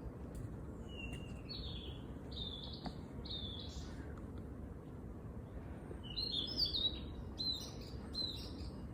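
Small songbird singing: a run of four short, slightly falling notes about a second in, then a louder, busier warbling phrase from about six seconds. A steady low background rumble runs underneath.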